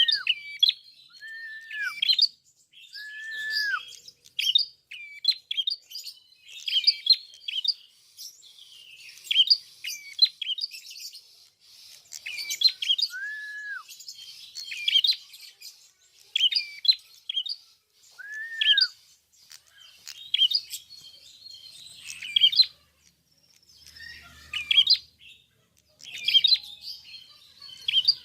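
A prenjak kepala merah (klawu) songbird singing energetically, in repeated short chattering phrases about once a second. A lower, arched whistled note comes in a few times.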